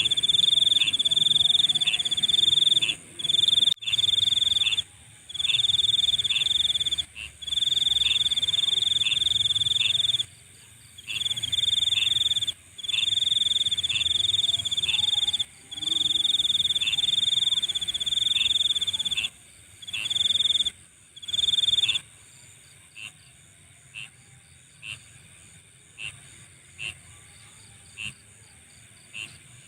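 Night insects calling: a loud, high trill comes in bursts of one to three seconds with short breaks between, over a steady high-pitched chorus. About two-thirds of the way in the trilling stops, leaving short single chirps about once a second over the chorus.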